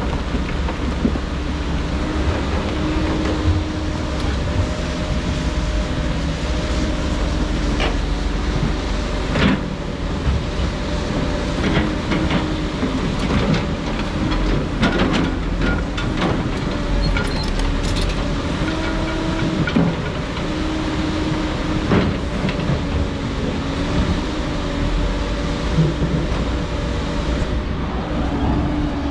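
Diesel engine of heavy earthmoving equipment running steadily under load, its pitch shifting slightly a few times, with scattered knocks and clatter of rock and metal.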